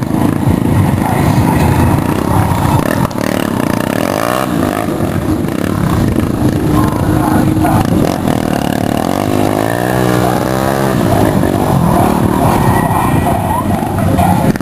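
Vehicle engines revving hard at a drift and stunt show. The pitch rises and falls about four seconds in, and again for a couple of seconds near the middle, over a continuous din of engines.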